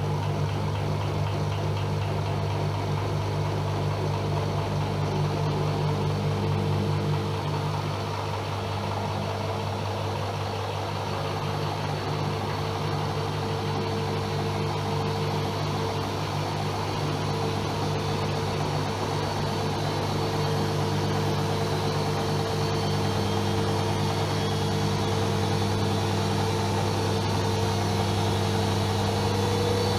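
AEG Öko-Lavamat Lavalogic 1600 washing machine running with a steady motor hum, its pitch creeping up slightly near the end.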